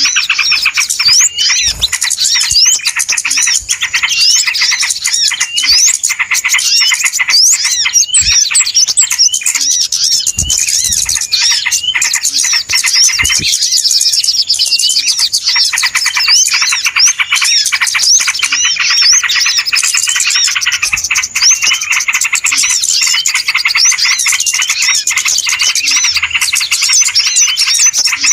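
A dense, noisy chorus of many small songbirds chirping and twittering without pause, in quick rising and falling notes. It is a lure recording of agitated small birds, played to draw wild birds in.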